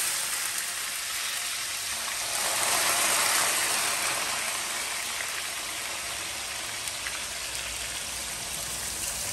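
Sliced bitter gourd (karela) frying in a pan of well-heated oil: a steady loud sizzle that swells a couple of seconds in as more slices go in.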